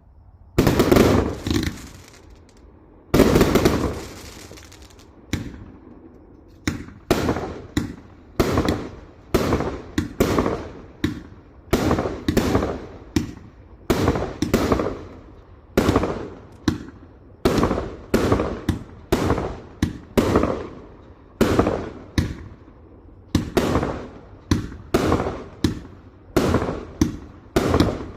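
A 168-shot assorted fireworks cake firing: a rapid series of shots, each a sharp report with a short fading tail, about two a second. Two longer, louder bursts come in the first few seconds.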